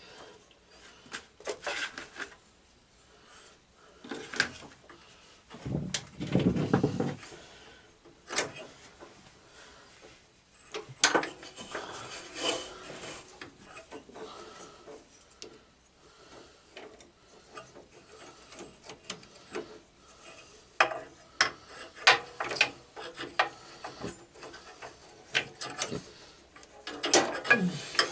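Scattered metal clinks, knocks and rubbing as parts of a lawn tractor are handled by hand around its drive belt and pulleys, with a heavier thump about six seconds in.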